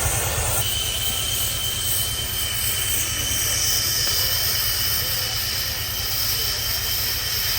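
Heavy boring machine cutting a steel pipe: a steady low machine hum, with a thin high whine from the cut setting in about half a second in and a brighter hiss joining midway.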